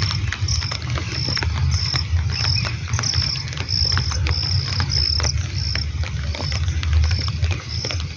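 An insect chirping steadily, a short high-pitched chirp about twice a second, over scattered ticks of raindrops and a constant low rumble.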